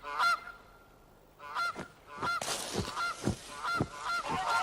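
Waterfowl honking: a string of short nasal calls, roughly one every half second to second. A steady hiss of noise joins them about two seconds in.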